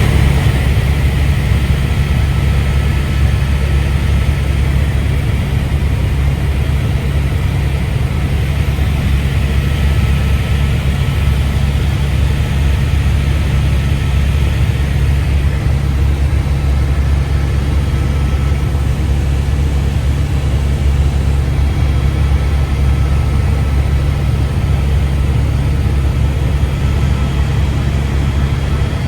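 Tour helicopter's engine and rotor running, a loud steady low drone that does not change.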